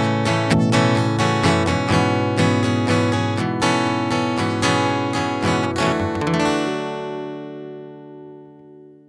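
Acoustic guitar strumming the song's closing bars, ending on a last strummed chord about six seconds in that rings out and fades away.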